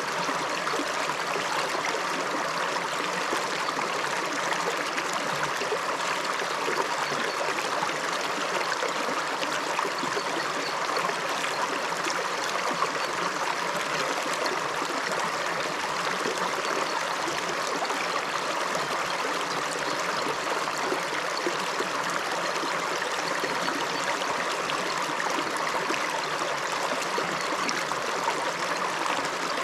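A shallow upland river flowing over stones, a steady rush and babble of water with no let-up.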